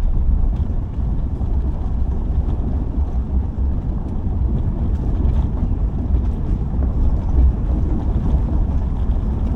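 Subaru driving along a forest road: a steady low rumble of road and engine noise, with wind buffeting the microphone.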